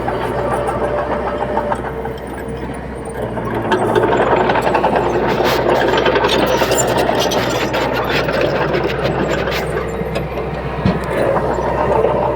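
Heavy diesel earthmoving machinery running under load, with a steady low engine drone and many sharp clanks and rattles. It grows louder about four seconds in.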